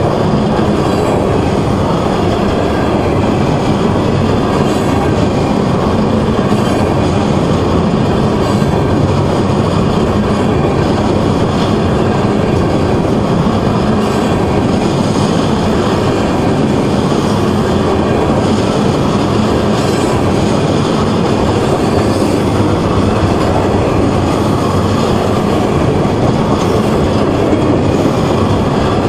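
A freight train of tank cars rolling past close by: a loud, steady rumble and rattle of steel wheels on the rails that never lets up.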